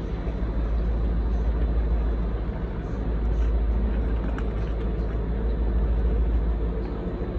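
Class 755 bi-mode multiple unit rolling slowly alongside the platform as it arrives, a steady deep rumble with a noisy hiss over it.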